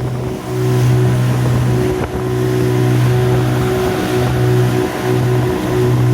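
Two Suzuki outboard motors, a 15 hp and a de-restricted 9.9 hp, running together and pushing an inflatable PVC boat at speed: a loud, steady engine drone with wind noise on the microphone.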